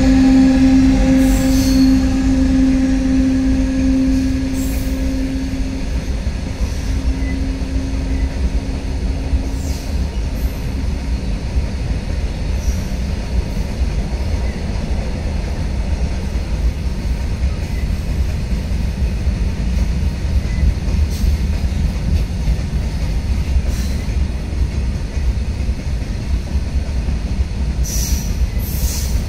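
A WAG-12B electric freight locomotive passing with a steady electric hum that fades over the first few seconds. A long rake of open freight wagons follows, rolling by with a continuous rumble of wheels on rail and a few sharp clacks near the start and the end.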